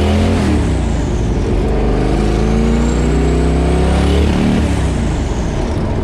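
Twin-turbo small-block Ford V8 accelerating under boost, heard from inside the cabin: revs climb with a rising turbo whistle, then drop about four seconds in as the whistle falls away. The wastegate is opening early, which the tuners take for the reason the boost falls short.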